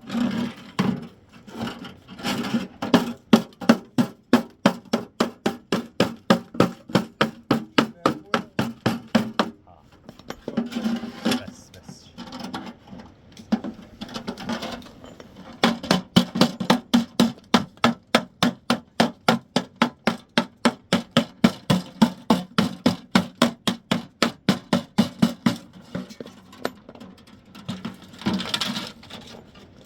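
An adze (tisheh) chopping at wood in quick, steady blows, about three a second, in long runs broken by short pauses.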